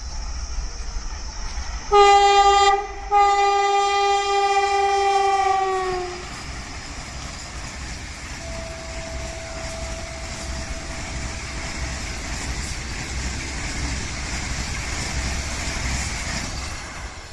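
Indian express train sounding its horn, one short blast then a long one whose pitch drops as it passes, followed by the steady rush and rumble of the train running by.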